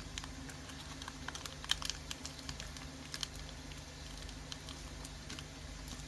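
Light, scattered clicks and taps of small pieces being handled while a miniature kit is put together, the sharpest about a second and a half in and again near the middle, over a low steady hum.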